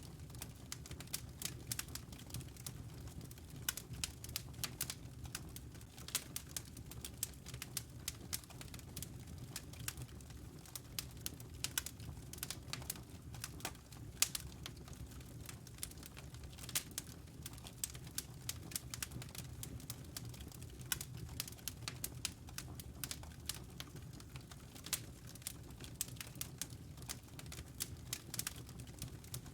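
Fireplace fire crackling: dense, irregular sharp snaps and pops over a steady low rumble.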